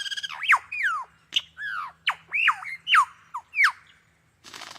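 Lyrebird singing a quick run of mimicked bird calls: about ten sharp whistled notes, most sliding steeply downward, then a short burst of noise near the end.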